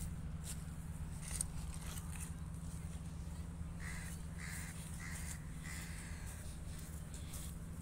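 A bird calling four times in quick succession, short calls about half a second apart, over a steady low hum.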